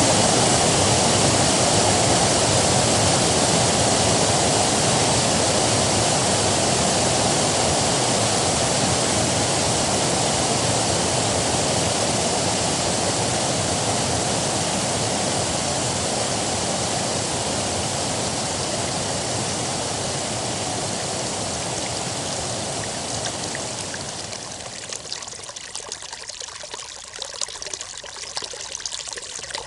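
River water rushing in a dense, steady roar that slowly fades. About 24 seconds in, it gives way to a lighter, thinner trickle of running water with small splashing.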